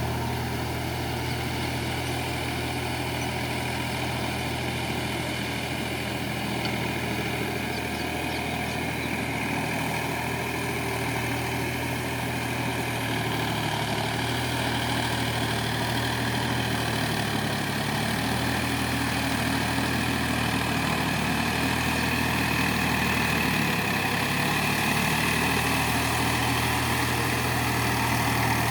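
Massey Ferguson 254 DI Dynatrack tractor's diesel engine running steadily, growing a little louder towards the end.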